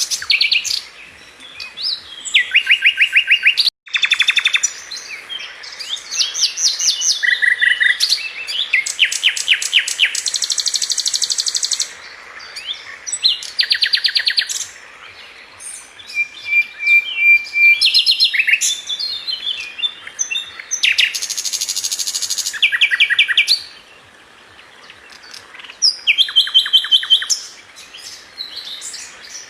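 A flycatcher of the kind sold as 'Sikatan London' singing: high, fast trills of rapidly repeated notes and short chirps, delivered in phrases of a second or two with brief pauses between them.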